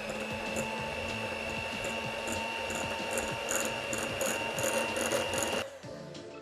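Electric mixer running at a steady pitch with a rattling whir as it beats butter into the flour-and-sugar dough mixture. It switches off shortly before the end.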